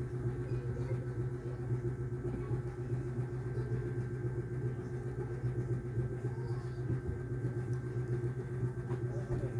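Steady low hum with a few faint steady tones above it, unchanging throughout.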